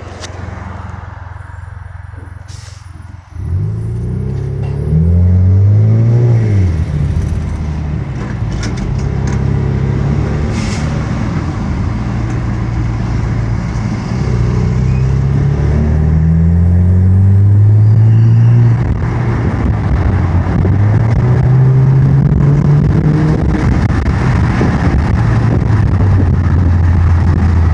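Exhaust and intake of a 2018 Chevrolet Camaro's 2.0-litre turbocharged four-cylinder, with cold air intake and muffler delete, heard from the cabin with the windows down. After about three quieter seconds the car pulls hard: the engine note rises and drops back several times as the 8-speed automatic upshifts, then holds steady near the end, with road and wind noise underneath.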